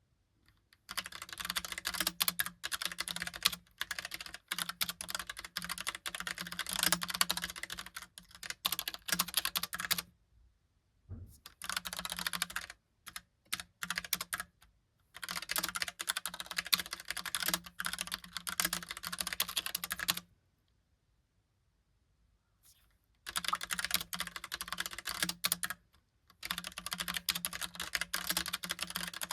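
Typing on a Logitech POP Keys mechanical keyboard with round typewriter-style keycaps: fast, continuous runs of clacking keystrokes broken by short pauses, about five bursts in all.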